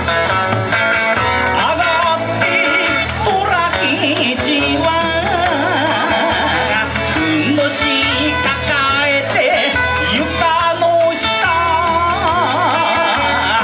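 Kawachi ondo band music: a guitar melody with bending notes over a steady, even drum beat, with some singing mixed in.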